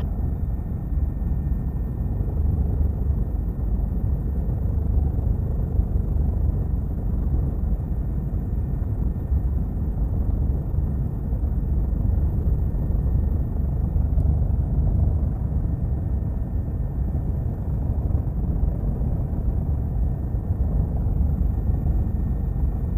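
Steady low drone of a helicopter in level flight, heard from inside the cabin.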